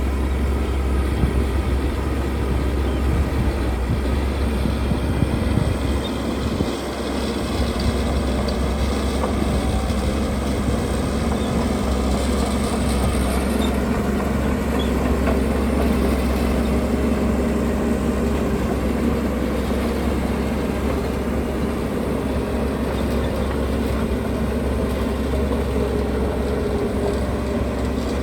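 Heavy diesel construction machinery running steadily with a deep engine rumble, dipping briefly about seven seconds in.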